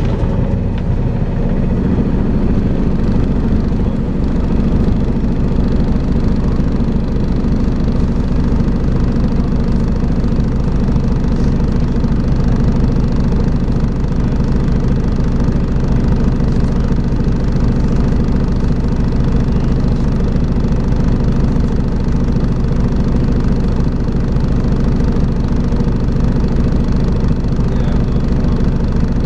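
Volvo B5LH hybrid double-decker bus's diesel engine running steadily, with the vacuum-cleaner-like drone that bus enthusiasts call 'hoovering'.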